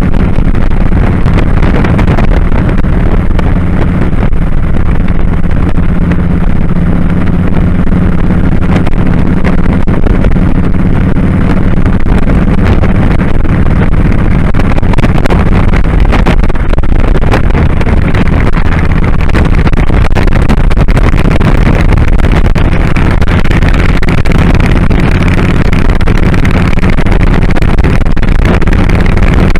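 Kawasaki Drifter 1500's V-twin engine running steadily under way, loud and constant, mixed with the rush of riding wind.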